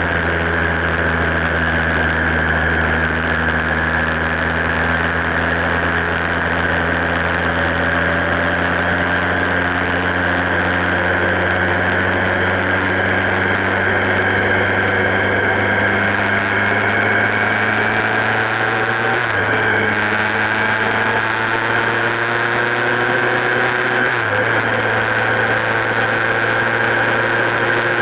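Motorcycle engine running at road speed, its pitch rising slowly as the bike picks up speed, with a brief break in the pitch about two-thirds of the way through. A steady higher whine runs along with it.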